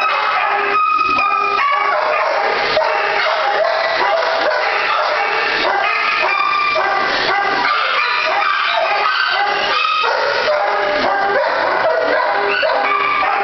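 Many shelter dogs barking at once in the kennels, a loud continuous din of overlapping barks.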